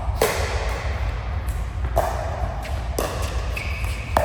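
Several sharp thuds about a second apart, echoing in a large hall, over a steady low hum, with a short high tone near the end: play in an indoor court match.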